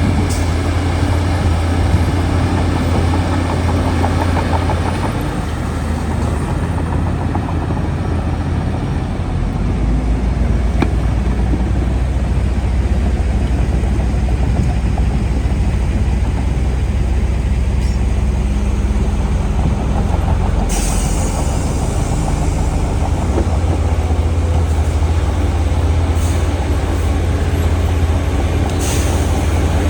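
Heavy diesel engine of a Shantui DH17C2 bulldozer running steadily under load while pushing soil, its pitch shifting a few seconds in. Short bursts of hiss come twice, about two-thirds of the way through and near the end.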